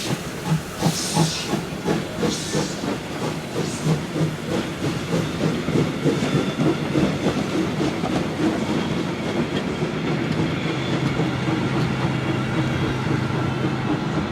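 Steam train under way: the locomotive's exhaust chuffs fade out over the first few seconds, while the wheels keep up a rhythmic clatter over the rail joints that settles into a steady rumble.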